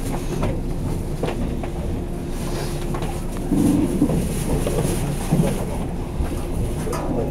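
Running noise of a 485-series electric limited express train heard from inside a passenger car: a steady low rumble with a few light knocks.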